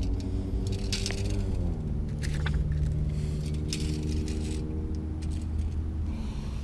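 A steady engine hum from a nearby motor vehicle, dropping in pitch about a second and a half in, with scattered short clicks and rustles from handling a fish and a tape measure on bare dirt.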